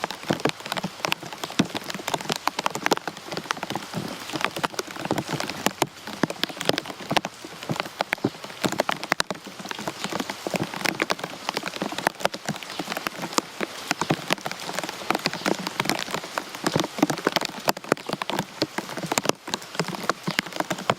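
Steady rain, with many close drops striking a surface as dense, irregular sharp taps over a constant hiss.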